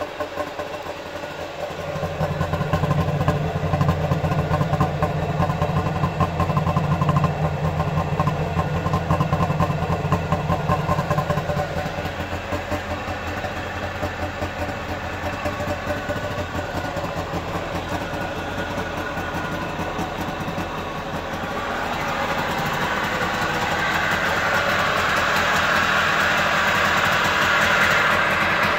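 Trabant 601's two-cylinder two-stroke engine idling with a steady, rapid pulsing beat. It is louder for the first ten seconds or so, then eases off, and grows louder and higher-toned again over the last third.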